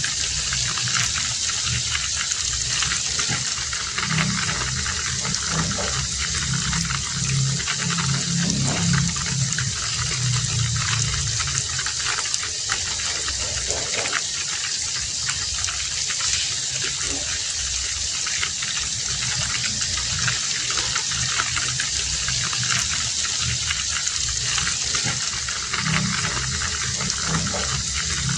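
Heavy rain falling steadily, a dense even hiss, with a deeper rumbling layer that swells for several seconds a few seconds in and again near the end.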